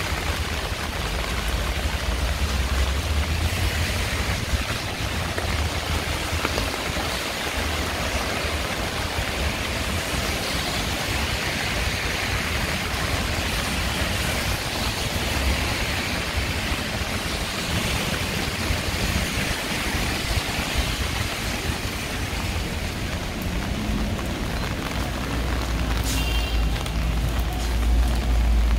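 Heavy rain falling steadily in a city street, a dense even hiss, with a low traffic rumble underneath that swells near the end.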